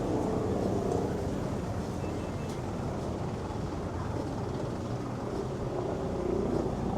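Busy street ambience: a steady hum of traffic and surroundings with indistinct voices of passers-by.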